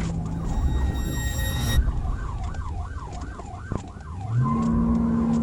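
Police car siren on a rapid yelp, its pitch sweeping up and down several times a second, over road noise. About four seconds in, a low steady drone rises in pitch and holds.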